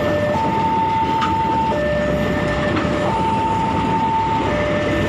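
Passenger train coaches rolling past over a level crossing with a steady rail rumble. Over it the crossing's warning alarm alternates between a higher and a lower tone, each held about one and a half seconds.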